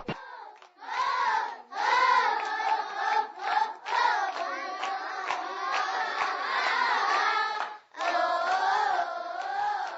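A group of children singing together in unison, with hand claps along with the song; the singing breaks off briefly just before the last two seconds and starts again.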